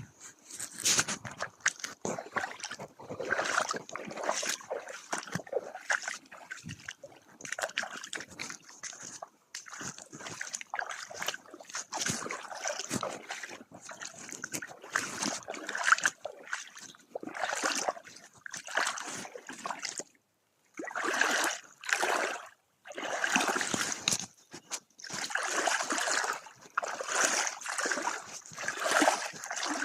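Water splashing and sloshing in irregular bursts, with two short breaks about twenty seconds in.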